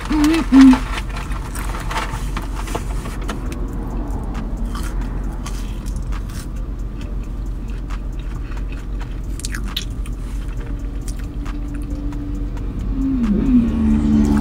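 Close-up chewing and biting on a Big Mac, soft wet mouth sounds and small clicks, over a steady low rumble of the car. Near the end a low humming tune that steps in pitch comes in and grows louder.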